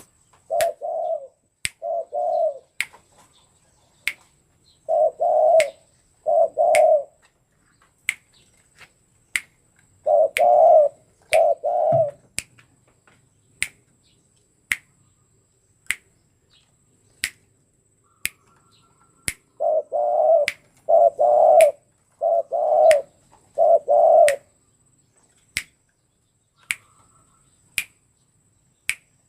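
Spotted dove (tekukur) cooing in phrases of two to five low coos, with long pauses between, the longest phrase near the end. Sharp ticks sound about once a second throughout.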